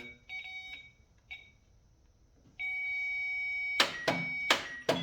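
High electronic beeping, likely a warning beeper or the meter: two short beeps, then a steady tone for about a second. Then four sharp clicks in quick succession in the last second or so, as the key is turned over to crank a starter that does not spin.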